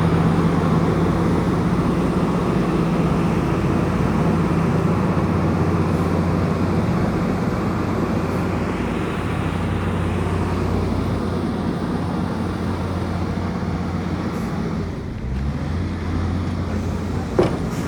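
Bulldozer's diesel engine running steadily under load, its pitch dropping about fifteen seconds in. A short, sharp clank or squeal comes near the end.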